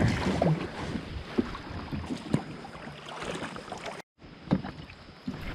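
Water sloshing and wind noise around a kayak being paddled on a river, with a few light knocks. The sound cuts off abruptly about four seconds in.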